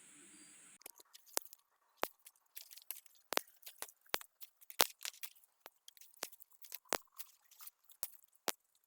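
Faint, irregular sharp crackles and clicks, starting about a second in after a faint steady hiss cuts off.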